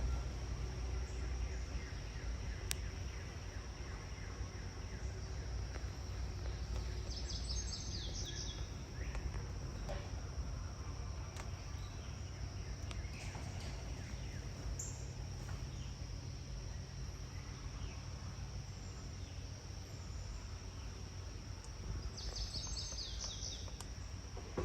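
Outdoor summer ambience: a steady high insect drone over a low rumble, with a small bird giving a brief, rapid, high-pitched chatter twice, about seven seconds in and again near the end.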